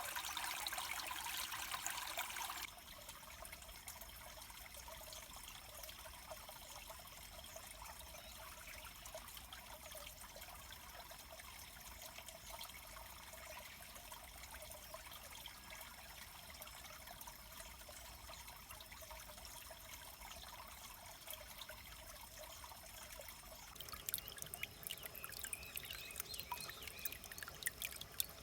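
Stream water trickling and flowing steadily. It is louder for the first couple of seconds, drops abruptly about three seconds in, and rises again near the end, when a few short high chirps come in.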